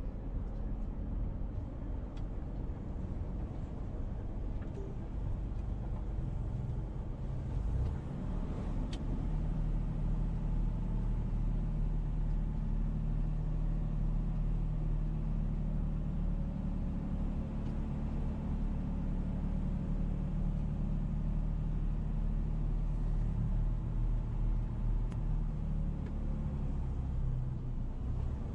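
A car's engine running steadily with road rumble, a little louder from about eight seconds in.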